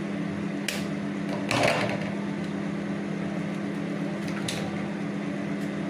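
Eggshell cracking against a cup: a few sharp taps, with the loudest crack a little under two seconds in, over a steady low electrical hum.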